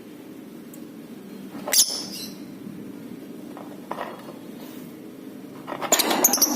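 Lovebird giving short, shrill, squeaky chirps: one sharp call about two seconds in, a fainter one at about four seconds, then a quick run of chattering calls near the end, over a steady low hum.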